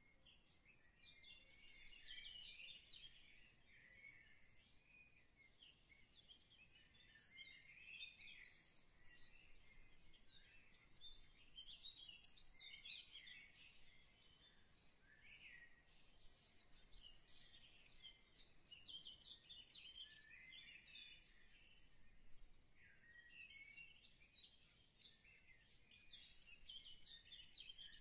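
Faint chirping of small birds, many quick high chirps overlapping without a break.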